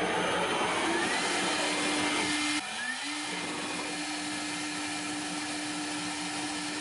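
A CNC spindle motor spinning a kitchen whisk at high speed, a steady electric whir. It is loudest for the first two and a half seconds, then dips and settles into an even hum.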